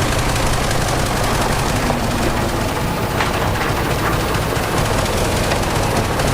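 Heavy diesel engine of earthmoving machinery running hard, with a fast, even rattle over a steady low engine drone.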